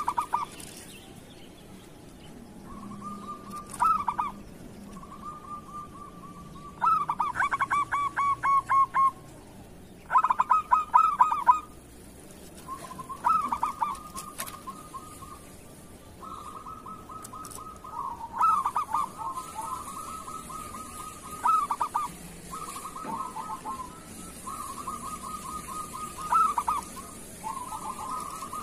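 Zebra doves (perkutut) cooing, phrase after phrase. Each song is a quick run of rapid, staccato cooing notes; the loudest runs come about a third of the way in.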